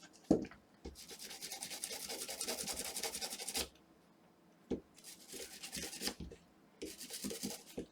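Toothbrush bristles scrubbing a corroded circuit board in quick back-and-forth strokes, in three spells: a long one of nearly three seconds, then two shorter ones. A short tap comes just after the start.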